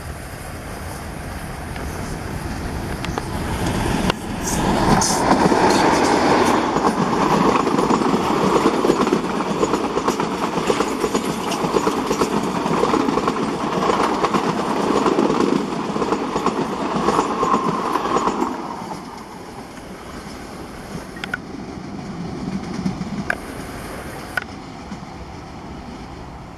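YDM-4 metre-gauge diesel locomotive with an ALCO engine approaching and passing with a passenger train, growing louder until it reaches the microphone about four seconds in. Coaches roll close by, wheels clattering over the rail joints, until the sound drops suddenly at about eighteen seconds as the train draws away.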